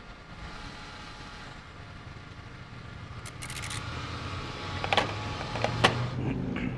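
An engine running low and steady, growing louder from about halfway, with a short run of high clicks and two sharp knocks near the end.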